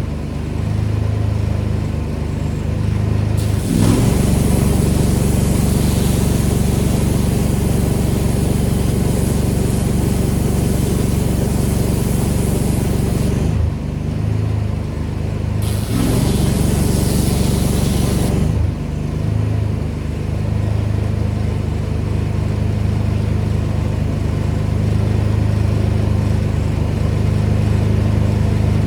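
Engine-driven pressure washer running steadily, with the high-pressure spray hissing from about four seconds in until about thirteen seconds, then again briefly from about sixteen to eighteen seconds. The engine's note shifts slightly when the spray stops.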